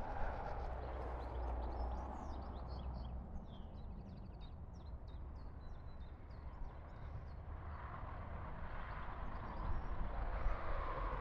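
Small birds chirping and singing, mostly through the middle few seconds, over a steady outdoor hiss.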